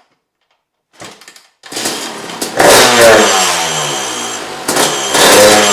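Yamaha YZ250 two-stroke single-cylinder dirt bike engine kick-started cold on the choke: a kick about a second in, then the engine fires and runs, blipped twice with the revs falling back after each. It didn't really rev right, which the riders put down to it not being warmed up.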